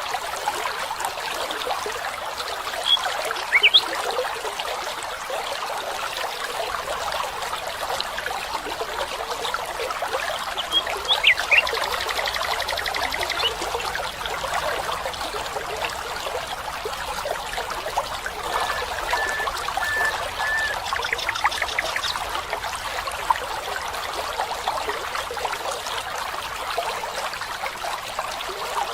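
A small stream trickling steadily, with occasional short bird calls over it: a few quick whistles, a brief trill, and a row of four short even notes about two-thirds of the way through.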